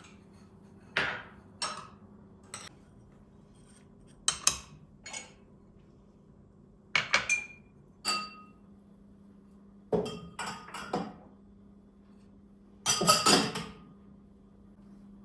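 Dishes and cutlery clinking and knocking as they are handled and set down, about ten separate clinks, a few ringing briefly, over a steady low hum.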